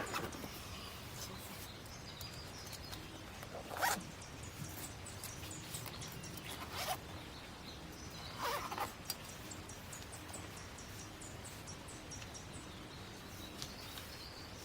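A zipper pulled in four short strokes spread across several seconds, with faint rapid high ticking in the background.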